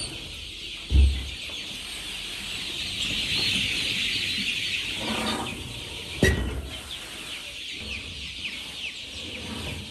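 Birds chirping and calling in many short notes, with two dull thumps, about a second in and again near six seconds.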